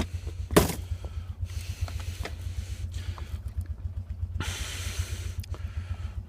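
Two ATV engines idling with a steady, pulsing low rumble after a cold start. A sharp knock about half a second in, and a brief hiss lasting about a second near the end.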